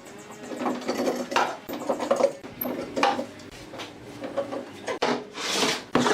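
Wood being worked by hand: irregular scraping and rubbing strokes with a few sharp knocks, and one longer stroke about five seconds in.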